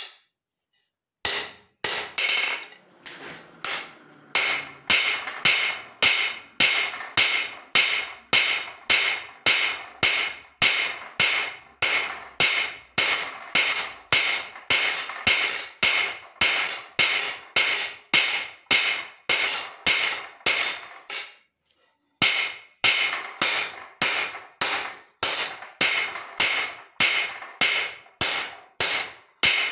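Hand hammer striking leaf-spring steel on an anvil in a steady rhythm of about two blows a second, each blow ringing. The hammering stops briefly about two-thirds of the way through, then resumes at the same pace.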